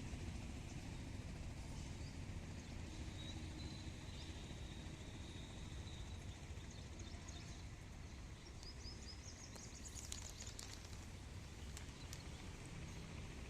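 Faint steady low background hum, with a run of short, high bird chirps about nine to ten seconds in.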